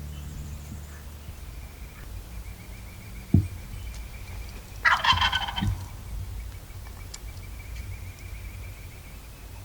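A wild turkey gobbler gobbling once, about five seconds in, a short rattling call. A sharp low thump comes a little before it.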